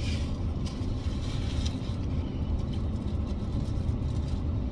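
Steady low rumble of a car's engine and road noise, heard from inside the cabin while it drives, with a few faint clicks in the first couple of seconds.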